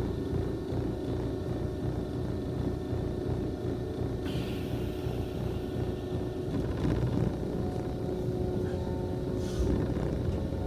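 Electric commuter train standing at a platform, heard from inside the car: a steady low rumble and hum of its equipment, with a short hiss of air about four seconds in. Near the end, faint whining motor tones start up as the train begins to move off.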